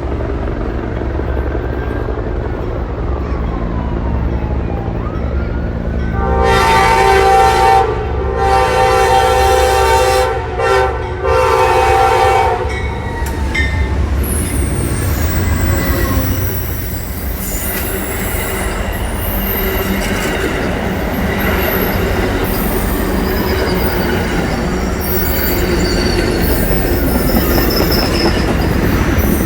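Amtrak train going by with a low rumble; about six seconds in its horn sounds a multi-note chord: a long blast, a short one, then another long one. After that come wheel squeals and rail clatter as the train runs through.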